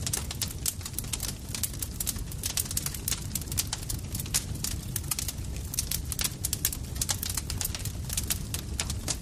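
Campfire crackling: many irregular sharp pops and snaps over a steady low rumble of the burning fire.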